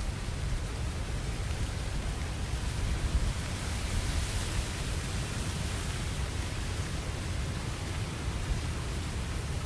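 Steady rain falling, an even hiss over a low rumble, swelling slightly a little past the middle.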